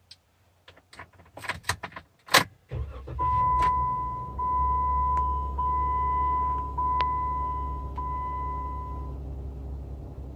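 Jeep Wrangler being started from inside the cab. A few clicks and a thump come first, then the engine catches about two and a half seconds in and idles steadily. Over the idle, a dashboard warning chime repeats about once a second.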